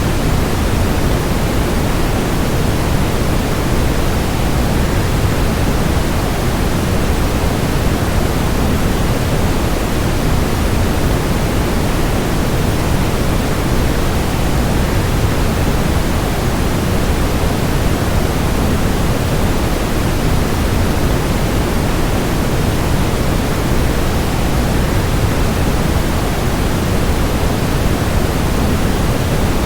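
Steady, unbroken rushing noise of a waterfall white-noise track, deepest in the low end, with no changes or separate events.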